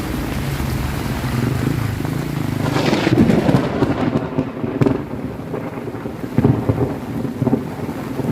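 Thunder during heavy rain: a loud clap about three seconds in, then rolling rumble with irregular cracks over the steady rain.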